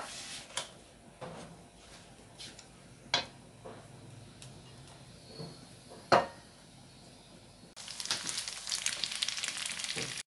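A few scattered sharp clicks and knocks, then from about eight seconds in, hot oil sizzling and crackling densely as panko-breaded tofu cubes fry in a non-stick pan.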